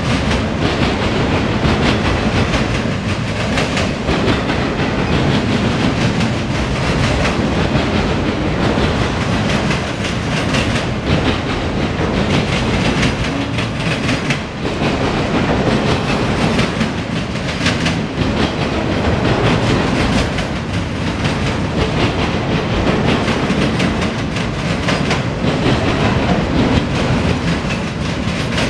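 CSX freight train's autorack cars rolling past close by: a steady loud rumble of steel wheels on rail, with a constant clickety-clack of wheels over the rail joints.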